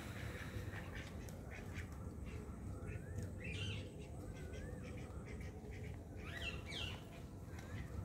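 Birds calling: a few short squawks and wavy whistles, the clearest about three and a half and six and a half seconds in.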